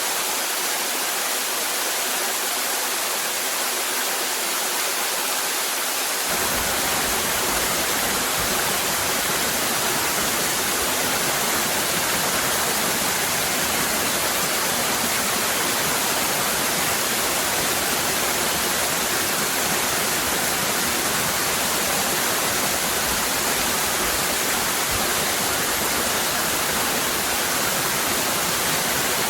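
Cascading waterfall rushing steadily, an even hiss of falling water; a deeper rumble joins about six seconds in.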